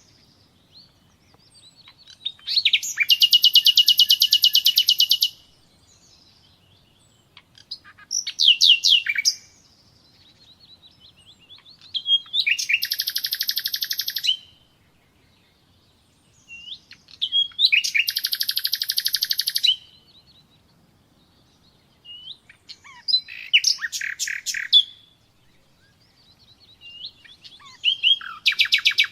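Nightingale singing: six loud phrases of fast, evenly repeated notes, each one to three seconds long, separated by pauses of a few seconds.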